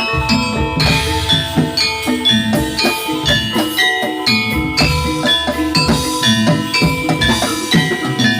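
Javanese gamelan music for a jathilan dance: bronze metallophones and gongs struck in quick interlocking notes over steady hand-drum strokes.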